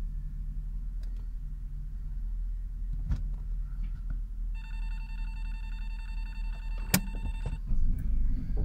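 Opel Vectra's engine idling, heard from inside the cabin as a steady low hum. About halfway through, an electronic ringing tone sounds for roughly three seconds, and there are two sharp clicks, the second near the end of the tone.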